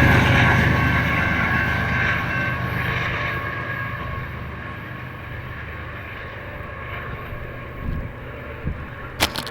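Intermodal freight train rolling away, its rumble and faint steady wheel tones fading over the first few seconds, with a few light knocks near the end.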